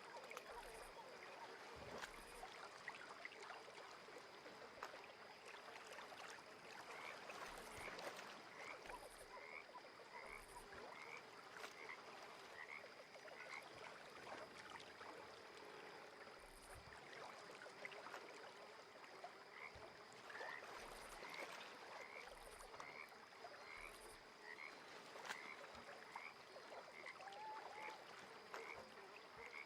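Frogs calling at a lake: short rising chirps repeated about once a second in runs, over a soft even hiss and a steady thin high tone.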